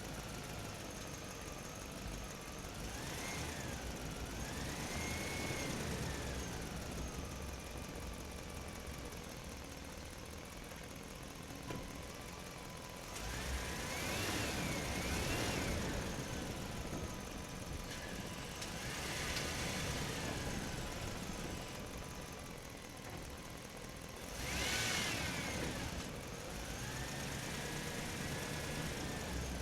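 Toy dump truck's small motor whining, rising and falling in pitch in several spells as it speeds up and slows down.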